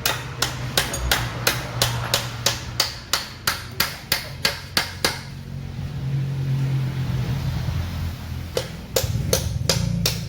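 Hammer striking metal in quick, even taps, about four a second for some five seconds, stopping, then starting again near the end, over a steady low hum.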